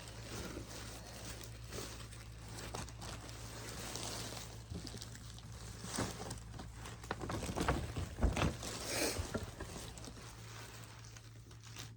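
Irregular rustling, light scraping and soft clicks of things being handled and pulled out of a bag, busiest a little past the middle, over a faint steady low hum.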